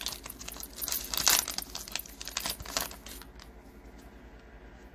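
A trading card pack's plastic wrapper being crinkled and torn open, in a quick irregular run of crackles that stops about three seconds in.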